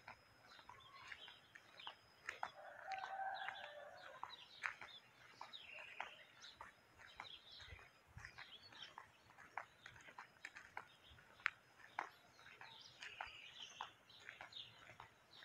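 Faint birds chirping: many short, sharp chirps at irregular intervals, with a longer, lower warbling call about three seconds in.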